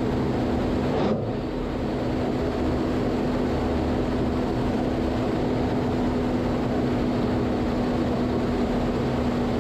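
Jet aircraft engine running steadily: an even rushing noise with a steady low hum, dipping briefly about a second in.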